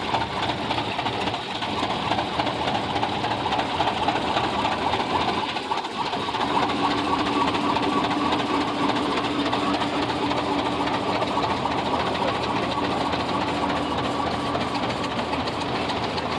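Antique tractor engine running steadily with a fast, even mechanical clatter. About six seconds in, a steady tone joins it.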